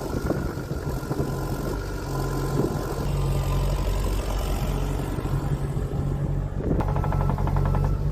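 2023 XCMG XE55U mini excavator's diesel engine idling steadily, with a fast, even ticking joining near the end.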